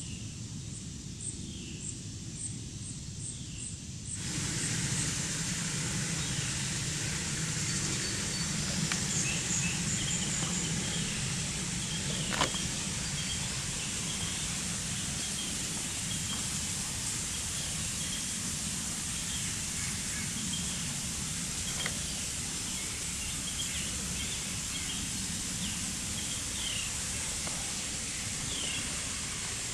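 Outdoor garden ambience: a steady noisy background with a small bird chirping in short, repeated calls. The background becomes abruptly louder about four seconds in, and there is a single sharp click about twelve seconds in.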